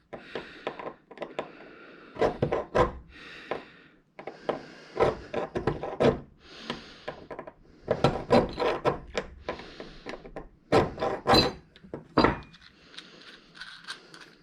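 Hand file scraping a burr off a table leg in about a dozen short back-and-forth strokes, with a few knocks in between.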